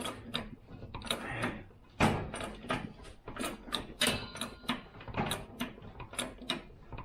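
Hand tools clicking and clanking on metal in an irregular run of sharp knocks, with a brief metallic ring about four seconds in, while the front coil spring is being compressed.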